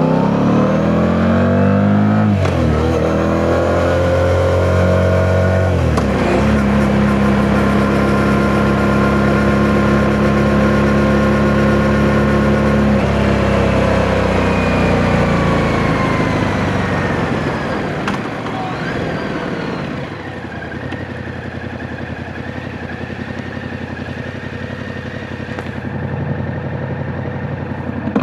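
Yamaha MT-07 parallel-twin engine under way: it revs up through the gears with two quick upshifts in the first six seconds, holds a steady cruise, then winds down as the bike slows. It runs quieter at low revs near the end.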